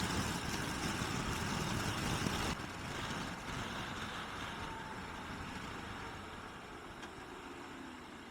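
Motorcycle on the move, engine and wind rush on the camera microphone. About two and a half seconds in, the rush drops off sharply, and the sound then slowly fades.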